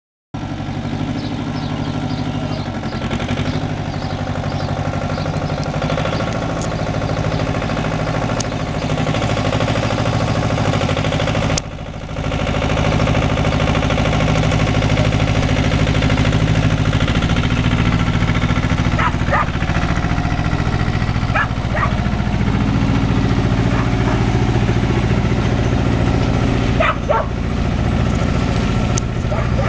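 Tractor engine running steadily, with a dog barking now and then, several barks in the second half.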